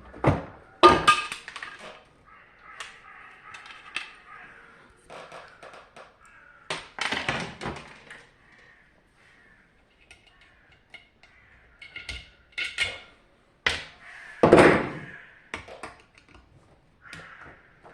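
Plastic and metal parts of a dehumidifier being handled and pried apart: irregular knocks and clatters with squeaky scraping in between. The loudest knocks come about a second in and again about three-quarters of the way through.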